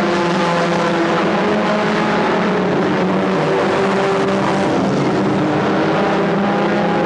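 Several stock car engines running together at racing speed, their pitches rising and falling as they lap, with no single car standing out.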